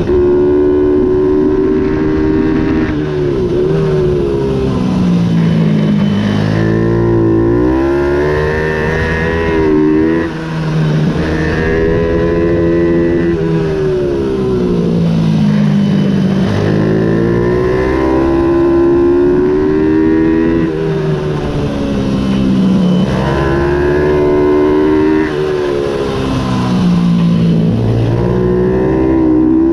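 Ohvale 110 minibike's single-cylinder four-stroke engine at race pace, its pitch rising under acceleration and falling again on the throttle lift, over and over through a lap of the kart track. There is a brief dip in level about ten seconds in.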